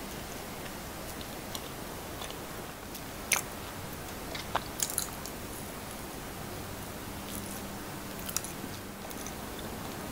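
Close-miked biting and chewing of a fried sesame-seed rice ball (buchi), with a few sharp crisp crackles from the crust over a steady low hiss.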